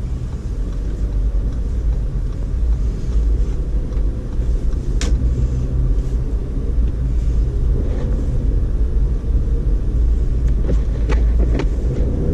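2012 Audi A4 Quattro driving on snow-covered road: a steady low rumble of engine and tyres, with a couple of sharp clicks, the clearest about five seconds in.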